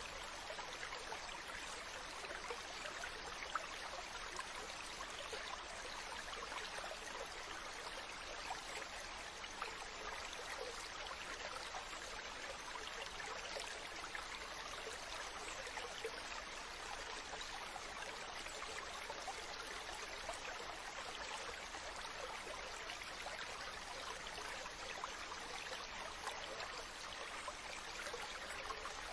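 Ocean water rushing in a steady, even wash, with no distinct surges or breaks.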